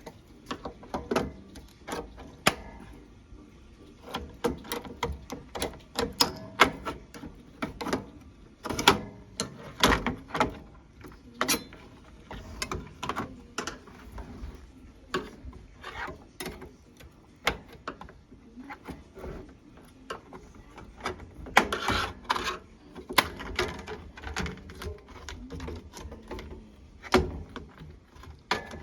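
Irregular clicks, taps and knocks of hand work on a microwave oven door's plastic and metal parts as it is taken apart, some sharp and loud, others light.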